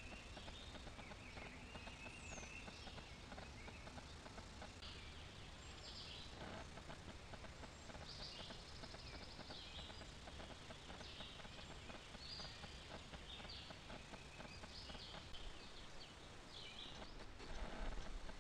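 Faint outdoor ambience with wild birds giving scattered short chirps and calls over a steady background hiss, and a brief louder rustle near the end.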